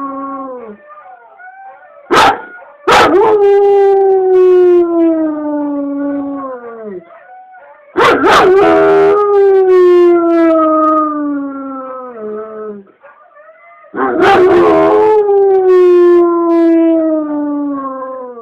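A dog howling, most likely set off by a siren: one howl trails off near the start, then three long howls follow. Each howl begins with a rough, sharp onset and slides slowly down in pitch over about four seconds.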